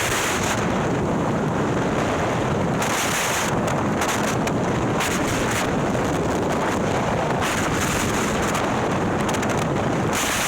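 Wind rushing over the microphone of a motorcycle at speed, over the steady running of a Harley-Davidson Milwaukee-Eight V-twin bored out to 130ci with a ThunderHeader exhaust. The wind hiss swells several times.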